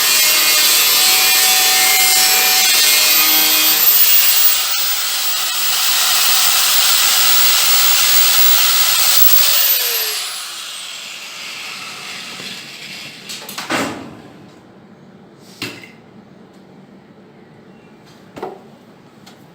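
Angle grinder with a thin, worn cutting disc cutting sheet steel, then switched off about ten seconds in and spinning down with a falling whine. A few knocks follow near the end.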